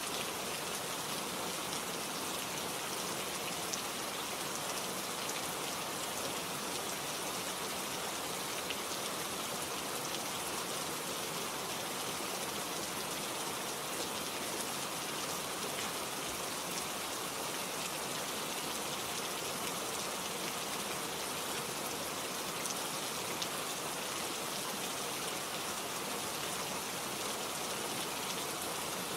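Steady rain falling, with a continuous patter of drops on surfaces and a few faint individual drop ticks.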